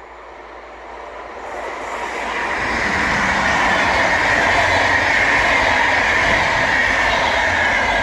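Intercity passenger train passing at speed: the rush of wheels on rail swells over the first few seconds and stays loud and steady, with a high ringing hiss from the wheels and rails.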